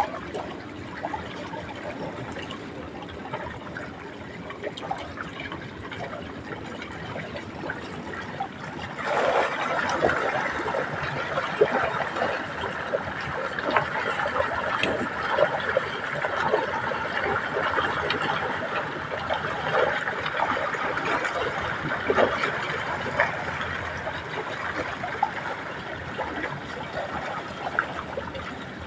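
Water trickling and splashing, a steady rush dotted with small crackles and drips, growing louder about nine seconds in.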